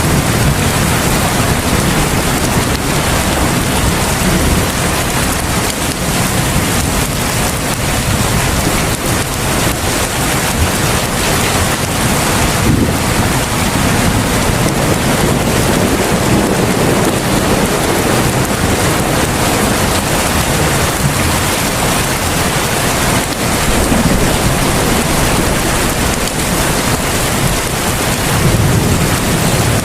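Heavy rain falling steadily, a dense, even hiss, with low rumbles of thunder swelling near the start and again near the end.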